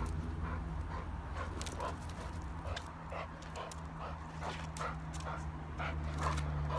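Dog whining and whimpering in a rapid run of short, high calls, about two to three a second, over a steady low hum.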